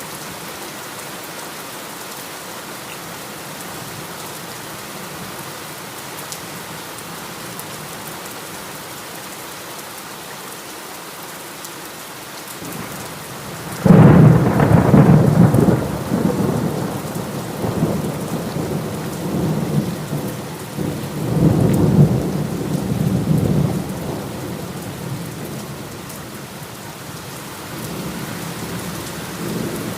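Steady heavy rain, broken about halfway through by a sudden clap of thunder that rumbles on in several swells for about ten seconds before fading back into the rain.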